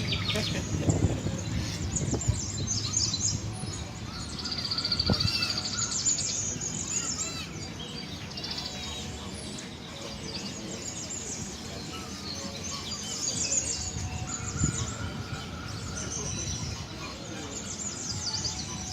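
Many aviary birds chirping and trilling over one another, with a steady low background hum.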